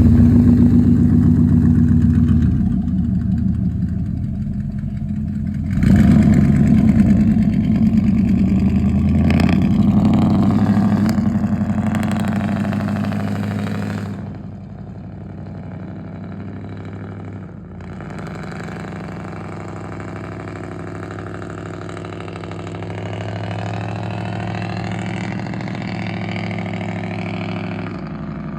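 Engine exhaust through true dual straight pipes, running loud and steady. It is revved up sharply about six seconds in and held high, then settles to a quieter steady run from about fourteen seconds.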